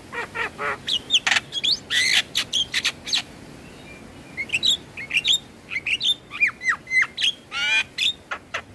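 Javan mynas singing: a dense run of short chirps, whistles and sliding notes, with a brief lull about three seconds in and a harsh rasping call near the end.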